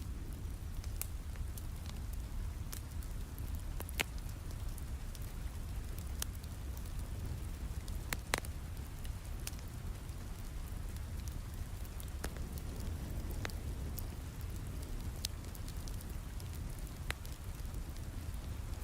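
Steady rain mixed with a fireplace crackling: scattered sharp pops over a continuous rain hiss with a deep low rumble.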